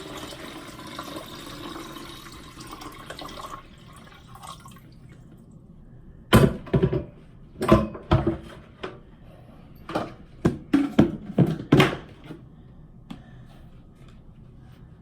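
Tap water running into a humidifier's water tank, stopping about three and a half seconds in. Then a series of sharp knocks and clicks, loudest of all.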